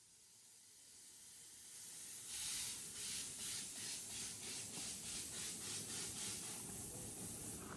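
A 7½-inch-gauge live steam locomotive working, its exhaust chuffing in a steady beat of about three puffs a second. It grows louder over the first couple of seconds, then holds steady.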